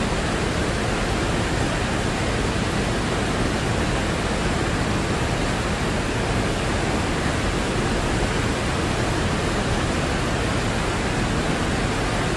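Mountain river flowing, a steady, even rush of water with no change in level.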